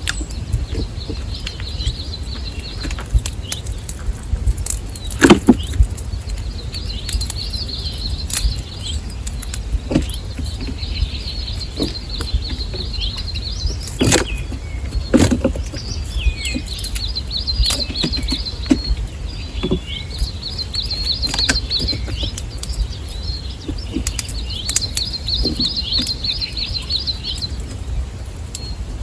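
A small songbird singing repeated short, high trilling phrases, about one to two seconds each, again and again, with a few sharp knocks and clicks among them and a steady low rumble underneath.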